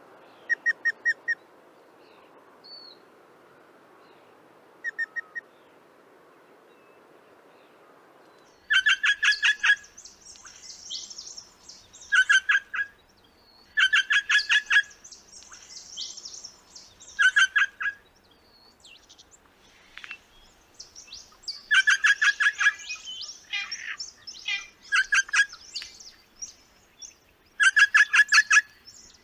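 Crimson rosellas calling. The calls come as bouts of quick, stuttering repeated notes, each bout about a second long, with faint ones near the start and loud ones recurring from about 9 seconds in. Softer, higher chattering and squeaks come between the bouts.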